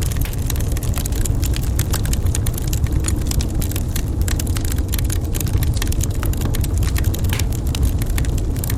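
Wood fire crackling in a fireplace: many small sharp pops and snaps, irregular and dense, over a steady low rumble of the burning fire.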